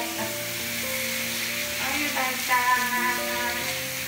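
Handheld shower head spraying water onto a wet cat's fur and the tiled floor, a steady hiss, with light background music playing over it.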